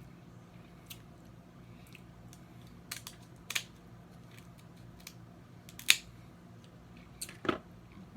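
Snow crab leg shells being cracked and picked apart: a handful of sharp, separate snaps and clicks, the loudest about six seconds in.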